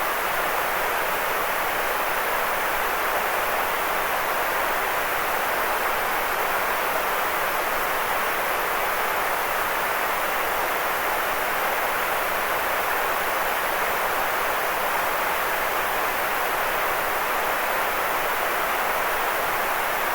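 Steady, unvarying white noise: an even hiss, strongest in the middle range with little bass, unchanging throughout.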